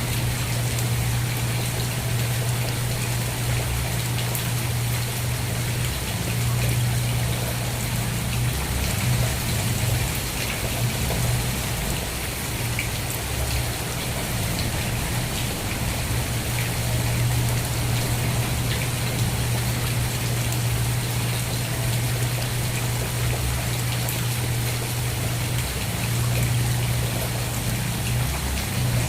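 Steady rain falling, with many small drop ticks in the high range over a constant low rumble.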